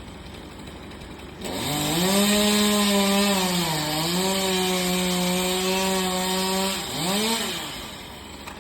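Two-stroke chainsaw idling, then throttled up about a second and a half in and held at high revs while cutting wood, the pitch sagging briefly partway through. It drops back near the end, gives one short rev, then returns to idle.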